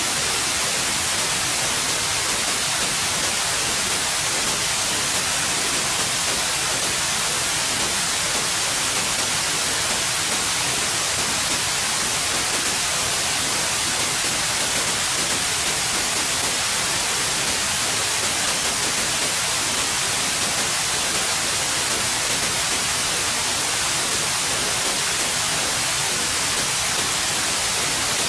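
Steady white noise: an even hiss, strongest in the treble, that does not change.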